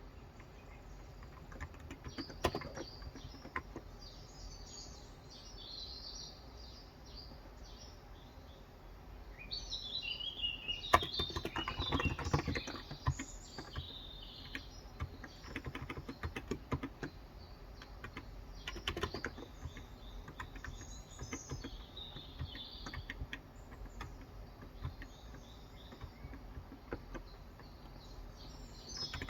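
Typing on a Cox Endeavor electrostatic capacitive (Topre-style) 35 g tenkeyless keyboard. Keystrokes are scattered at first, with a dense run of typing about ten seconds in, while small birds chirp throughout.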